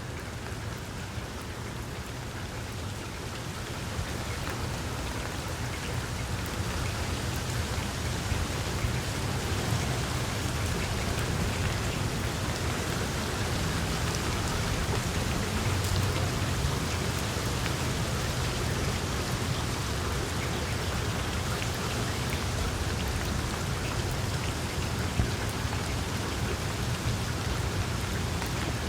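Wood fire crackling in a fireplace: a dense patter of small crackles over a steady low rumble of flame, with an occasional louder pop.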